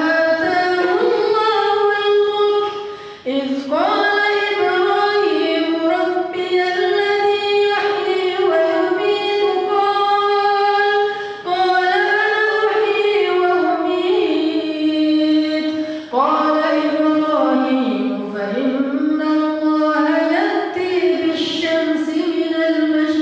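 A man's solo voice reciting the Quran in a slow, melodic chant (tilawah), holding long ornamented notes that glide up and down in pitch. It pauses briefly for breath about three, eleven and sixteen seconds in.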